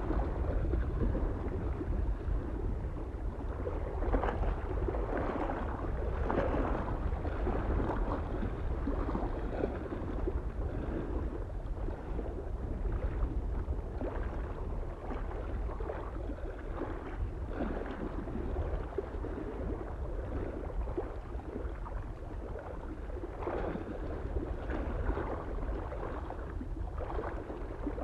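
Small waves lapping and splashing irregularly against a lake shore, over a steady low rumble of soft wind.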